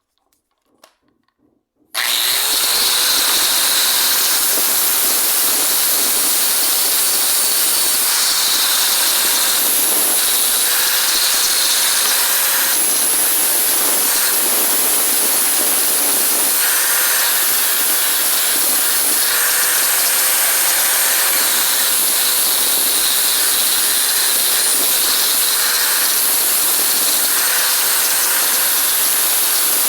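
A loud, steady hiss that starts abruptly about two seconds in, after a few faint ticks.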